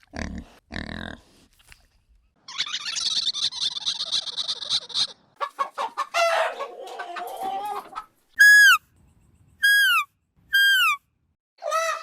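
Poultry calling: chickens clucking and crowing over the first eight seconds, then three short, identical falling calls about a second apart, and a goose honk starting near the end.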